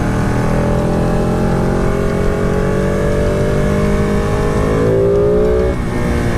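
Motorcycle engine pulling under steady acceleration, its pitch rising slowly for about five seconds, then dropping sharply near the end.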